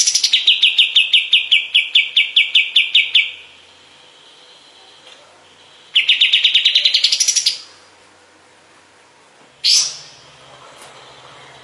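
A kapas tembak songbird singing rapid, rattling trills of quickly repeated notes, about eight a second. The first trill lasts about three seconds; a shorter one comes about six seconds in and rises in pitch at its end. A single sharp call follows near the end.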